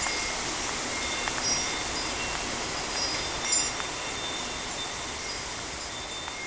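Wind chimes ringing in scattered, overlapping high tones, knocked about by strong wind, over a steady rush of wind through trees.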